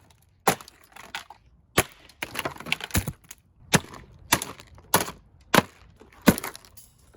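A vintage Tatung 16-inch table fan being smashed apart: a rapid series of about ten sharp blows, roughly one every two-thirds of a second, with cracking and splintering of its cheap casing between them.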